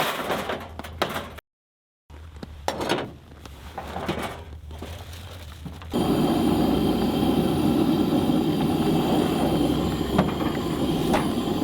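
A few short knocks and handling rustles, broken by a cut. Then, about six seconds in, a steady mechanical hum with a constant whine starts suddenly and runs on.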